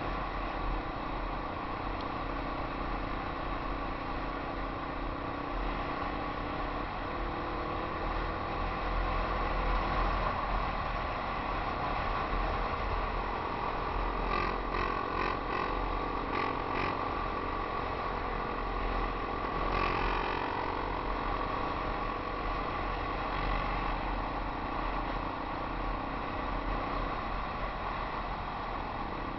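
Yamaha XT 250 trail bike's single-cylinder four-stroke engine running while riding a dirt track, its pitch shifting a little with the throttle, under a steady rush of noise. A short stretch of rattling clicks comes about halfway through.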